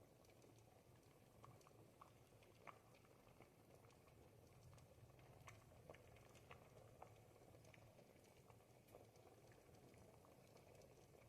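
A thick pot of ribollita, the Tuscan bread-and-vegetable soup, simmering: faint, irregular bubbling pops over a low, steady background.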